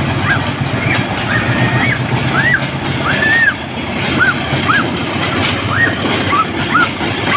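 Train running through a station close by: a loud, steady rumble, with a string of short squeaks that rise and fall in pitch, about two a second, and one longer squeak about three seconds in.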